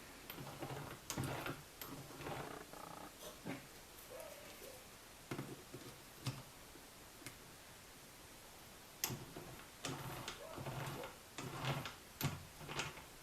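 Irregular clicks and short knocks, as of hand tools and small metal parts being handled, with a cluster of louder knocks in the last few seconds.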